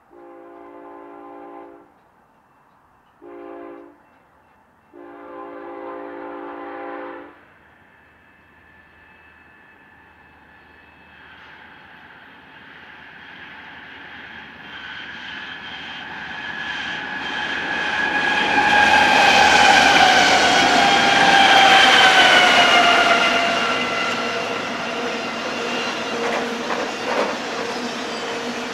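A locomotive horn sounds three blasts, long, short, long, in the first seven seconds. Then the rumble and wheel noise of a passing BNSF double-stack intermodal freight train builds up, with a high metallic ringing squeal that drifts slightly down in pitch. It is loudest about two-thirds of the way through and eases off a little near the end.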